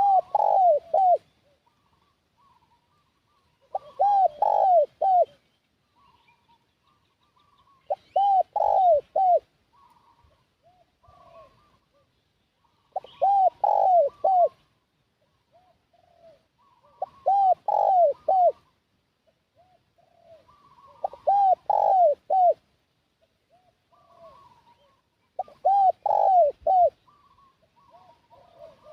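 Spotted dove (tekukur) cooing its song: a phrase of four or five quick, arched coos, repeated about every four seconds, with fainter coos between the phrases.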